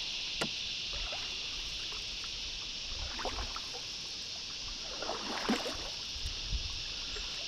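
Canoe paddle strokes swishing softly through the water, two of them about three and five and a half seconds in, over a steady high insect chorus.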